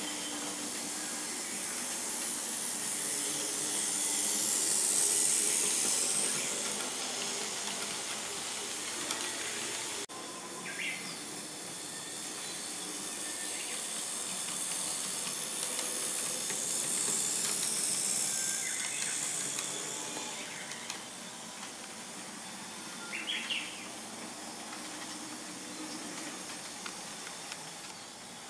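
Model train running on the layout track: a steady hiss of wheels and motor that swells twice as it passes close, with a few short high squeaks.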